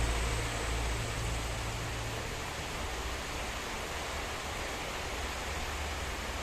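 Heavy storm rain pouring steadily, a dense even hiss. A deep low rumble fades out in the first second.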